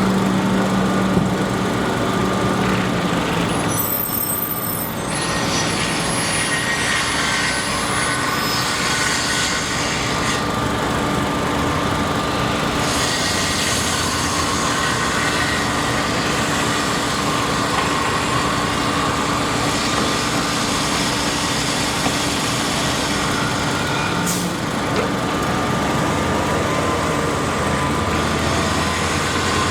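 Steady running engine or machinery noise with a constant hum, no single event standing out.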